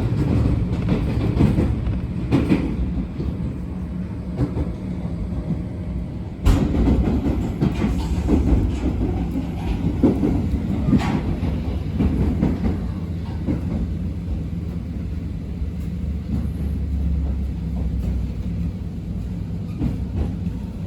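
Abukuma Express 8100 series electric train running, heard from inside the car: a steady low rumble and hum with wheel clicks over rail joints, and one sharp knock about six and a half seconds in.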